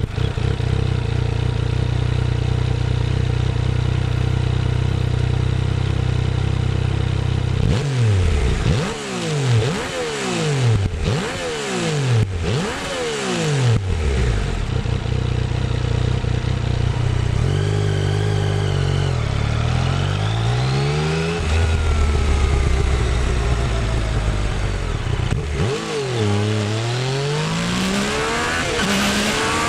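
2016 Yamaha FZ-09's inline three-cylinder engine through its stock exhaust, on the move. It holds a steady drone for the first several seconds, then its pitch drops and climbs several times between about 8 and 14 seconds in, and dips and climbs once more near the end.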